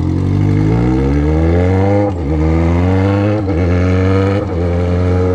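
Yamaha XJ6's inline-four engine with a 4-into-1 exhaust without a silencer pulling away: the pitch climbs steadily, drops briefly at each upshift, three in all, then holds steady near the end.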